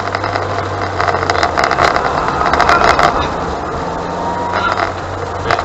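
Car engine running and road noise, heard from inside the cabin as the car drives slowly and turns, with a faint whine that rises slowly in pitch in the second half. Scattered sharp clicks come between about one and three seconds in.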